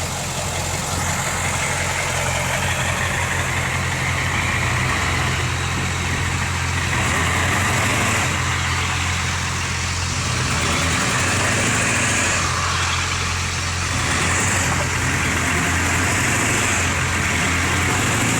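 Ford F350's diesel engine running steadily at low revs while towing, with a hiss above it that swells and eases every few seconds.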